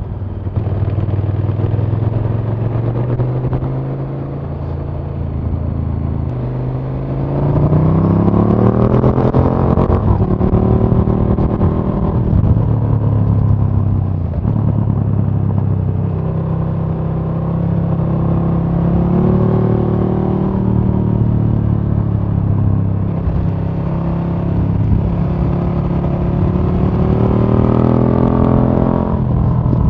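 2017 KTM 1290 Super Duke R's 1301 cc V-twin engine heard onboard while riding. The engine note climbs in pitch under acceleration several times and drops sharply at gear changes or when the throttle is shut, about ten seconds in and again near the end.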